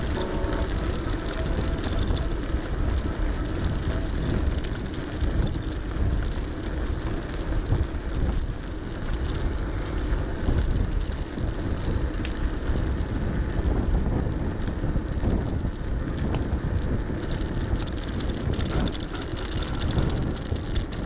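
Wind buffeting the microphone of a GoPro 7 action camera while an electric bike is ridden, with tyre noise underneath; a steady, fluctuating noise heaviest at the low end.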